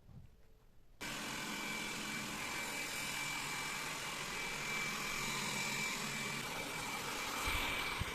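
Vacuum cleaner switched on about a second in and running steadily, with a thin high whine over its even rushing noise.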